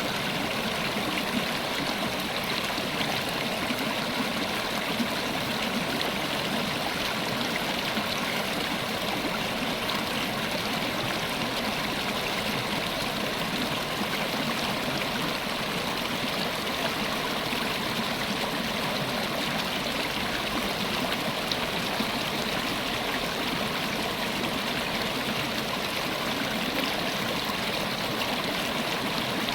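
River water flowing and babbling over rocks in a steady, unbroken rush.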